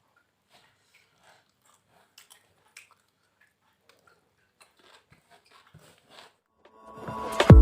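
Faint, close chewing and biting: soft wet clicks and crackles of a person eating. Loud music with a beat fades in near the end.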